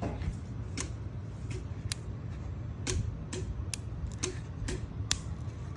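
LED light driver (drive transformer) of a chandelier crackling with sharp, irregular ticks, about two a second, over a low hum. The ticking is arcing at a cracked, poorly soldered joint on the driver's circuit board, where a burnt mark was found.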